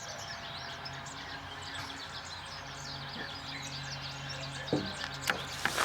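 Many small birds chirping, a dense chatter of short quick calls, over a steady low hum. A few sharp knocks come near the end.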